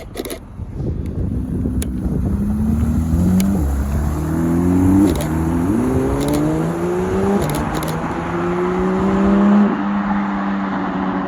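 A supercar's engine accelerating hard away, its pitch climbing and then dropping sharply at several upshifts, loudest about five seconds in and again just before ten seconds.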